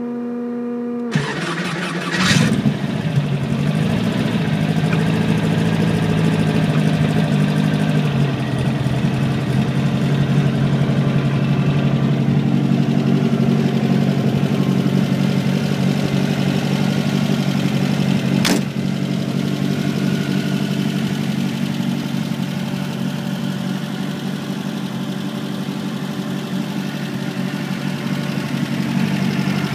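Classic Volkswagen Beetle's air-cooled flat-four engine starting about two seconds in, then idling steadily after its speed shifts and settles over the next several seconds. A single sharp knock about two-thirds of the way through.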